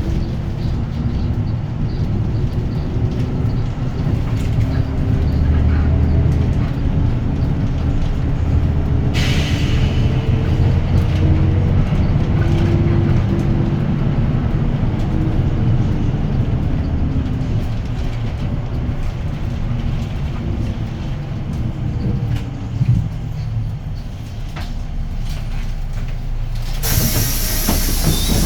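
Cabin sound of a Hyundai Green City city bus's D6GB diesel engine running under way, its pitch rising and falling with speed and gear changes. There is a brief hiss of air about nine seconds in, and a loud hiss of compressed air near the end as the bus comes to its stop.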